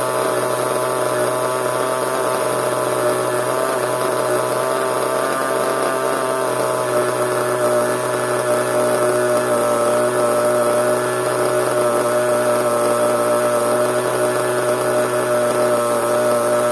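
Small nitro (glow-fuel) engine of a CEN RC monster truck running steadily at a constant speed, with an even, unchanging pitch.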